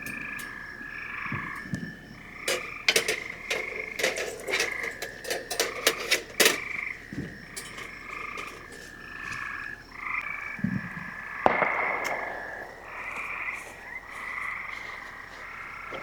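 Frogs calling over and over in a chorus, with a steady high trill underneath. A flurry of sharp clicks and knocks comes about three to six seconds in, and a single knock near the twelve-second mark.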